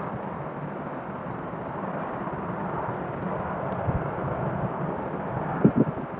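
Steady outdoor ambient noise: an even hiss over a low hum, with a few short soft thumps near the end.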